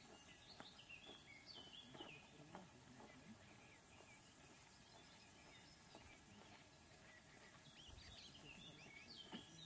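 Near silence with faint bird chirping: short twittering phrases in the first couple of seconds and again near the end.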